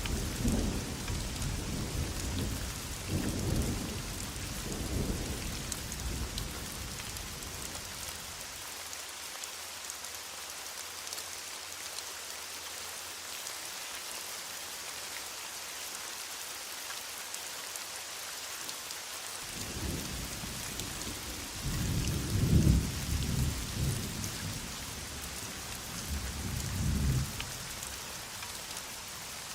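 Heavy rain falling steadily, with distant thunder rumbling that fades out over the first several seconds and rolls in again from about twenty seconds in, loudest a couple of seconds later.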